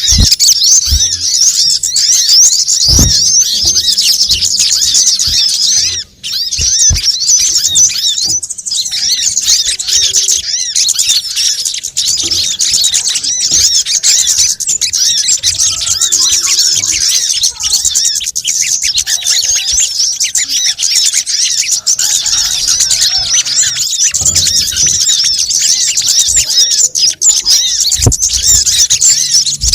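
Dense, rapid, high-pitched twittering and chirping of small birds, a bird-trapping lure call for sunbirds and similar small songbirds. It drops out for a moment about six seconds in, and a few short low thumps come through, about three seconds in and near the end.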